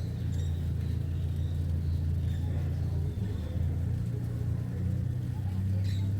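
A steady low rumbling hum, like a motor running, with faint high chirps of small birds in the first half and a sharp click near the end.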